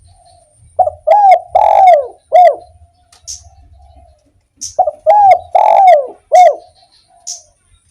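Spotted dove (derkuku) singing its "kuk 1" song: two phrases of four falling coos, the third coo in each phrase longer than the rest. Faint high bird chirps come in between the phrases.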